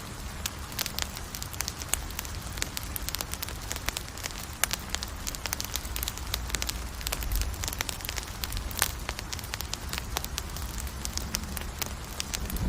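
Campfire burning, with frequent sharp, irregular crackles and pops over a low steady rumble.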